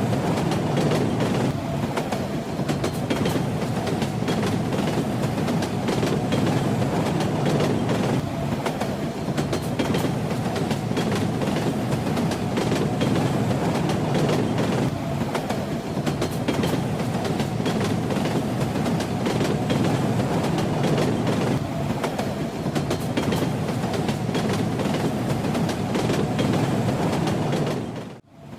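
A train running steadily: rumble with the clickety-clack of wheels over the rail joints. The sound drops out for a split second just before the end.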